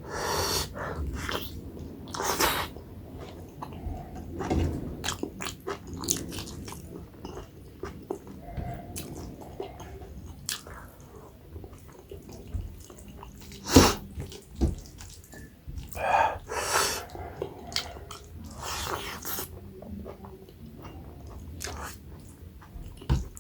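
Close-miked chewing and wet mouth sounds of a person eating maize dhido with nettle curry and chicken, with irregular small clicks and a few louder, longer wet noises. A sharp click about 14 seconds in is the loudest sound.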